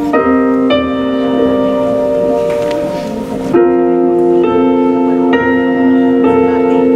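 Instrumental music: a keyboard plays held chords that change every second or so, leading into the next song before the singing starts.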